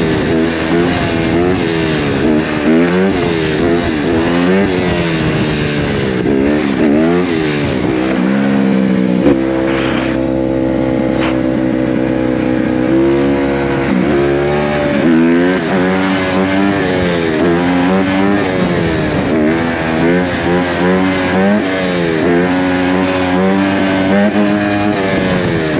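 Motor vehicle engine revved up and down over and over, its pitch climbing and falling about once a second. About ten seconds in it holds a steady note for a few seconds, then the revving starts again.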